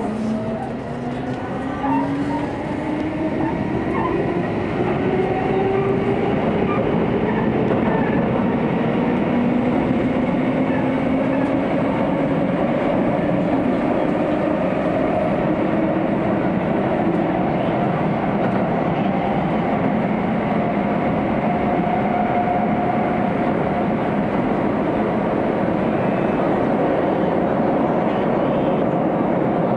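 Hokuso Railway 9000 series electric train pulling away and accelerating in a tunnel, heard from inside the car: motor whine rising in pitch as it gathers speed, over a steady running rumble that grows louder in the first few seconds, then holds.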